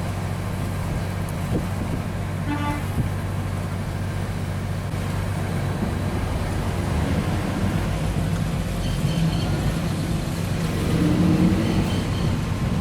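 Car engine idling steadily, heard with a low hum. About two and a half seconds in there is a short, high pitched tone like a toot.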